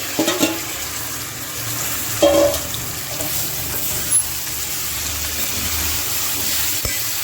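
Marinated chicken pieces sizzling steadily in hot oil with fried onions in a pan, just after being added. A few brief clinks or knocks sound over the sizzle, the loudest about two seconds in.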